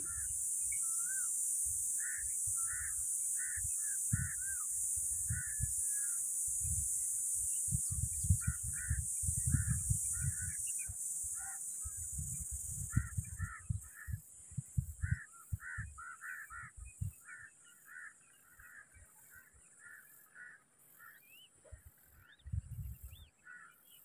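Birds calling with repeated short notes in clusters, over a steady high hiss that gives way about halfway to a fainter high pulsing, with irregular low gusty rumbles.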